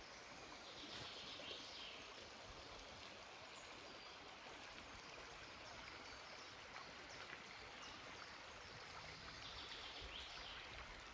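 Faint, steady rush of a forest stream, with a few faint bird chirps about a second in and again near the end.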